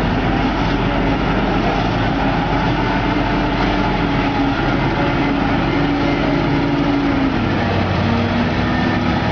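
Heavy diesel machinery engine running steadily under load, its note dipping slightly about seven seconds in.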